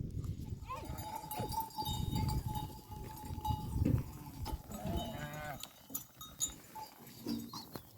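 Bells on grazing livestock clinking and ringing, with a short animal call about five seconds in.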